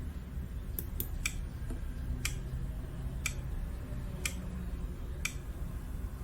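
Clock-ticking countdown sound effect of a quiz game's answer timer: sharp ticks about once a second over a low steady hum, counting down to time's up.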